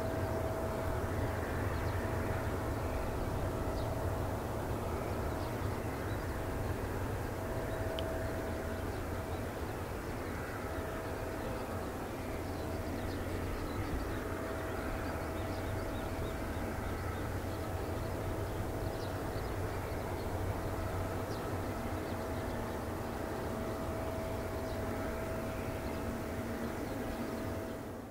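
Jet airliner engines running steadily at low power: a low rumble with a faint steady whine.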